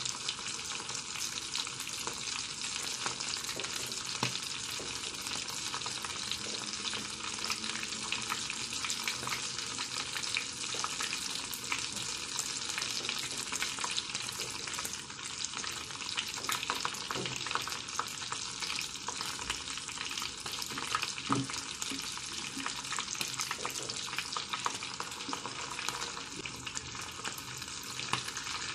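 Breadcrumb-coated chicken drumsticks frying in hot oil in a wok, a steady sizzle of fine crackling.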